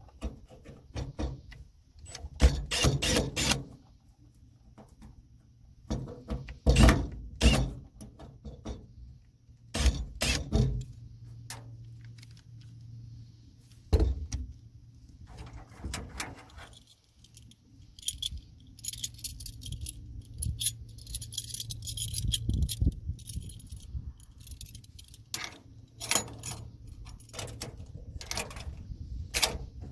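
Metal clinking, rattling and sharp knocks from handling the steel latch hook on a truck's drop-side cargo bed and the tools used to fit it, coming in irregular clusters. A low steady hum runs through the middle, with a high hiss over part of it.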